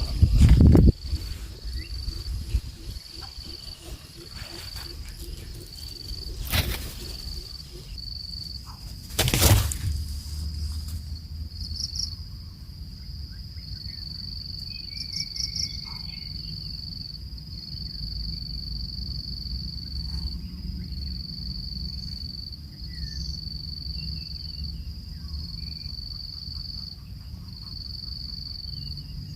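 Insects chirping in a high, even series of pulses about once a second, broken by two sharp cracks about three seconds apart in the first third, with a few faint bird chirps.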